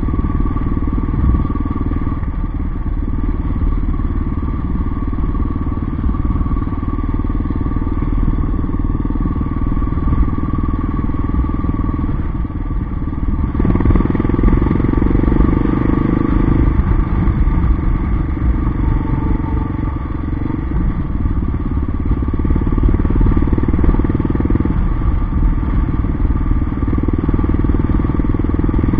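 Yamaha XT 600's single-cylinder four-stroke engine running steadily as the bike is ridden, growing louder for a few seconds about halfway through.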